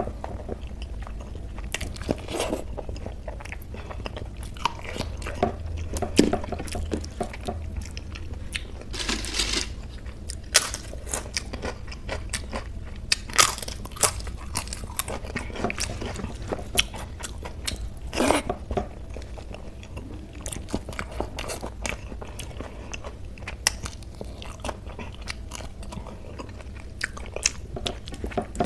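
Close-miked eating: chewing and wet mouth smacks as rice soaked in kadhi and pakoras are eaten by hand, with fingers squishing the rice through the curry. Irregular small clicks and smacks, with a few louder ones.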